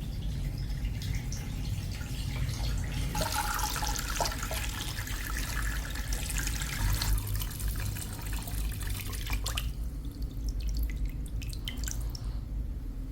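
Water running and splashing, with drips and small clicks, loudest in the middle stretch, over a steady low hum.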